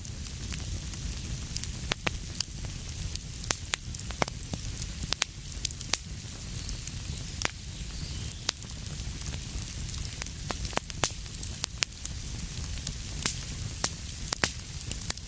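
Wood fire burning with a steady low rumble and hiss, broken by frequent irregular sharp crackles and pops.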